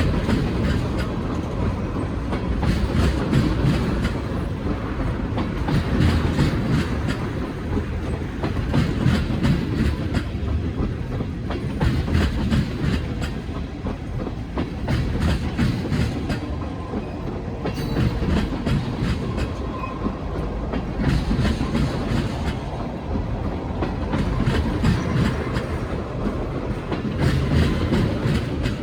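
Freight cars of a Norfolk Southern manifest train rolling past, their wheels clicking over rail joints in groups that come about every three seconds over a steady low rumble.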